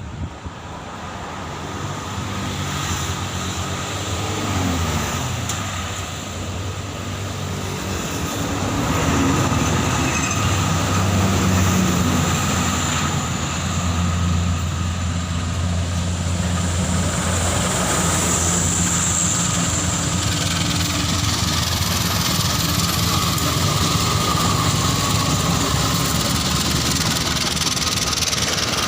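Diesel locomotive engine running as a train approaches, growing louder over the first several seconds and then staying loud and steady.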